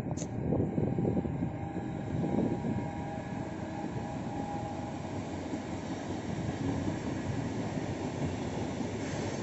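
Freight train hauled by an electric locomotive rolling past at moderate distance: a steady rumble of wagon wheels on the rails, with a few louder swells in the first couple of seconds.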